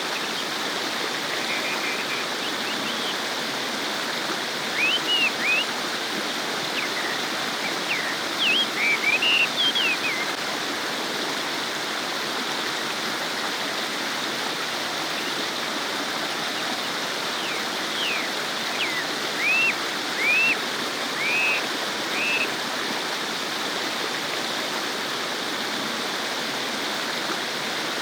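Stream water babbling and rushing steadily over rocks. Short bird chirps come in two brief bouts, one a few seconds in and another past the middle.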